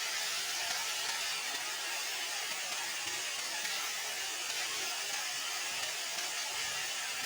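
A steady, even hiss-like rushing noise that holds at one level throughout, with no distinct events.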